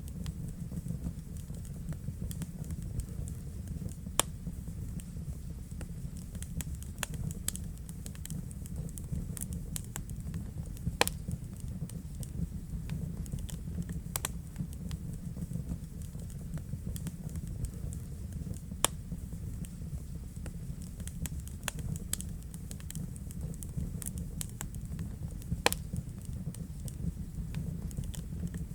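Wood fire burning in a fireplace: a steady low rumble of flame with frequent irregular crackles and a few louder pops.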